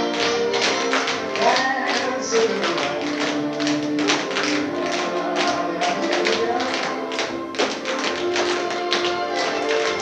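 Tap shoes of a group of tap dancers clicking in quick, dense rhythms over recorded music with held notes.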